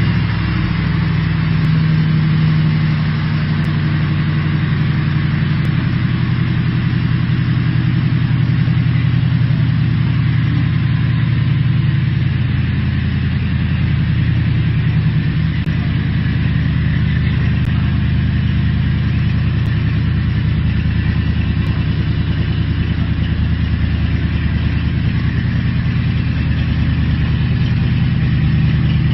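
A car engine idling steadily, with an even low rumble.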